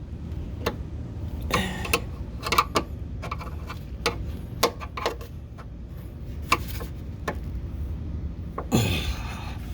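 Hand tools working a running-board mounting clip into a pickup truck's body: irregular metallic clicks and taps with a couple of short scrapes, as a stubborn clip resists being seated.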